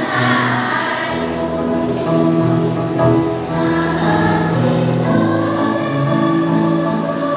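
Children's choir singing, holding long notes in several voices that change pitch together every second or two.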